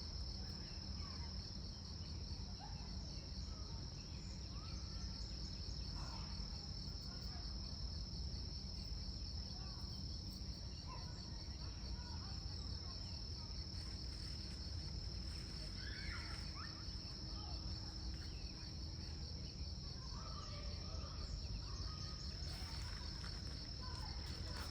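Continuous high, pulsing trill of an insect chorus, typical of crickets, with scattered faint short chirps and a steady low rumble underneath.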